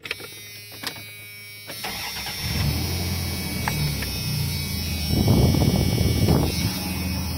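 A 1994 Dodge Dakota's 3.9-litre V6 on its stock exhaust cranks and starts about two seconds in, then runs smoothly with a slight rumble. It gets louder for a moment around five seconds in.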